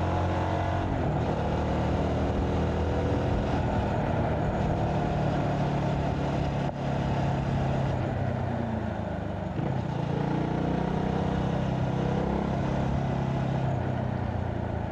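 CFMoto 250NK motorcycle's single-cylinder engine running under way, its note falling and climbing again as the revs change, with a brief drop in loudness about seven seconds in.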